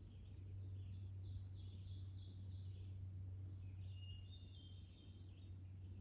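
Faint songbird song in two short phrases of quick high notes, about a second in and again about four seconds in, over a steady low hum.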